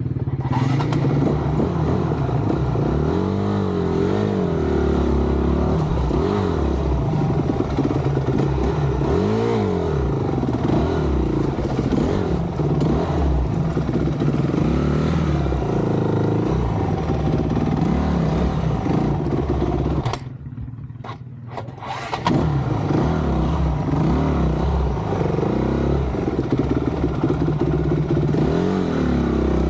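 Honda dirt bike engine under constant throttle changes, the revs rising and falling again and again. About two-thirds of the way through, the sound drops sharply for a couple of seconds, then the engine picks up again.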